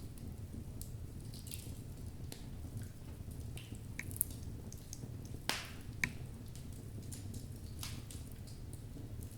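Wood logs burning in a fireplace: a steady low rumble of flame with scattered crackles and pops, the sharpest about four, five and a half, and six seconds in.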